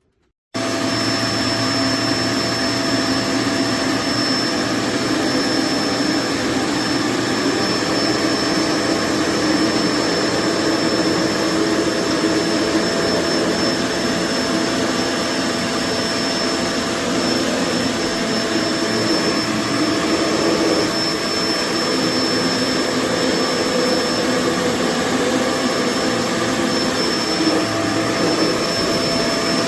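Kenmore BU4050 bagged upright vacuum cleaner running steadily, its motor noise carrying a thin high whine. It cuts in suddenly about half a second in.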